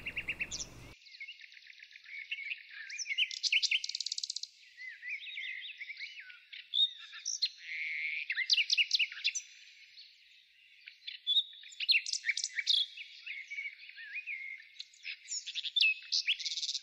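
Birdsong: several small birds chirping and twittering in quick, varied calls, thinning out briefly about ten seconds in.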